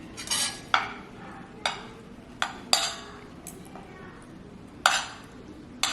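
Cutlery clinking against a plate: several sharp, irregularly spaced clinks, each with a brief ring.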